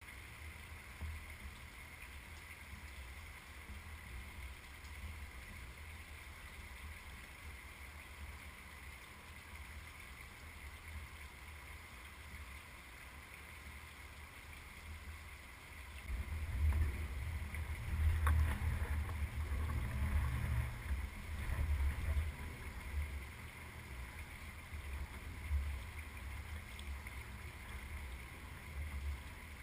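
Wind buffeting the camera's microphone as a low rumble, gusting stronger for several seconds from about halfway through.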